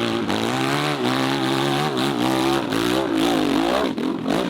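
Motocross bike engines revving, their pitch rising and falling as the throttle is worked.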